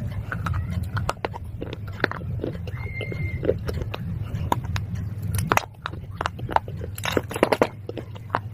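Crunching bites and chewing of hard, brittle pieces of baked clay and slate pencil: many sharp cracks and crumbles, with a cluster of loud crunches about seven seconds in. A steady low hum runs underneath.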